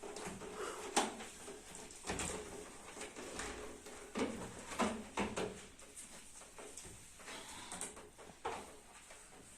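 Irregular knocks, clicks and short scrapes of household objects being handled and set down, about a dozen, the sharpest about a second in.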